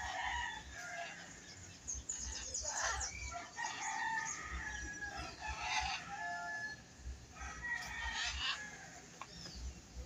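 Chickens clucking and calling over one another, with a rooster crowing among them.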